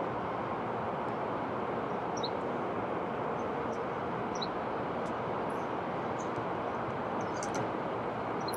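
Steady, even background noise with no speech, and a few faint short high chirps about two seconds in and again a little past four seconds.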